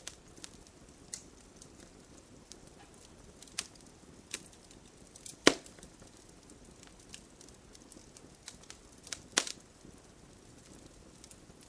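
Wood fire crackling in a fireplace: scattered sharp pops and snaps over a soft steady hiss, with the loudest pop about five and a half seconds in and another strong one near nine and a half seconds.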